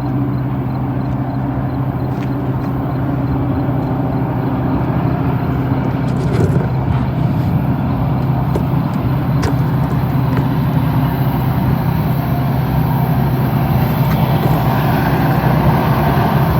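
Diesel freight locomotives running with a steady engine drone, growing slowly louder as the train approaches, with a few faint clanks over the noise of the train.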